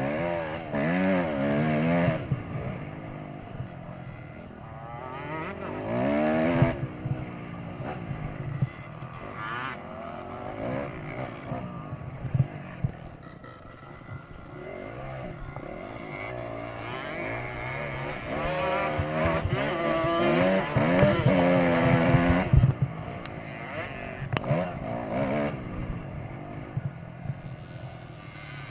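Dirt bike engines revving hard, their pitch climbing and dropping again and again as the throttle opens and closes.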